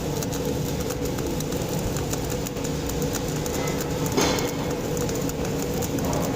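CO2-shielded MIG welding arc, crackling steadily, with a brief louder burst about four seconds in.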